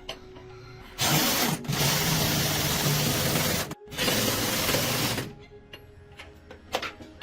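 A loud tool running in two long stretches of steady hiss with a low hum underneath, broken by a brief stop about halfway through, followed by a few light clicks.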